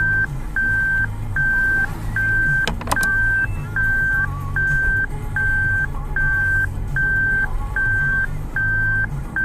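A car's reversing warning beeping inside the cabin: one steady high beep about every 0.8 seconds, with the reverse gear engaged. A couple of sharp clicks sound about three seconds in.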